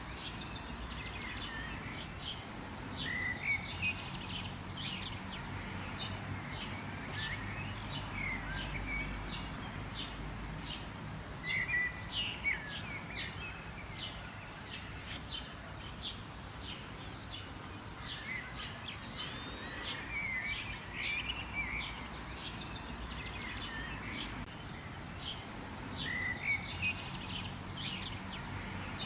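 Wild birds chirping and calling in a dense chorus of quick, high chirps several a second, with a louder slurred phrase coming back every eight or nine seconds, over a steady low outdoor rumble.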